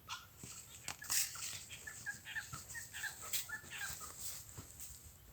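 Short high-pitched animal calls, repeated in quick runs, among scattered clicks.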